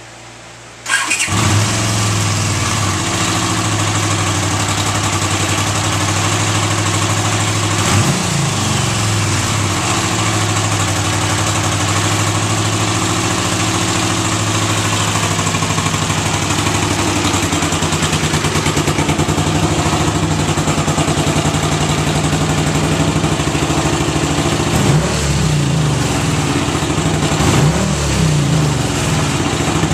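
1979 Honda CX500 Custom's liquid-cooled V-twin starting warm about a second in, catching at once and settling into a steady idle. It is briefly revved around eight seconds in and again several times near the end.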